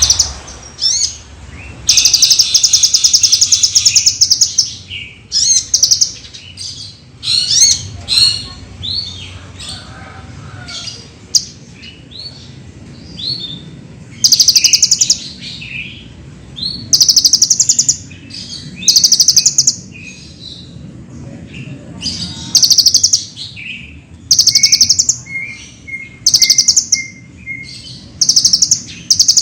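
Kolibri ninja (Van Hasselt's sunbird) singing: fast, high rattling trills of one to two seconds each, with quick sharp chirps in between.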